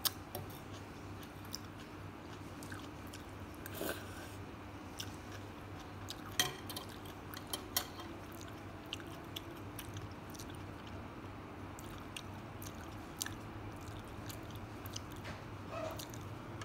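Close-miked chewing and mouth sounds of someone eating noodles, with scattered small sharp clicks and smacks over a faint steady hum.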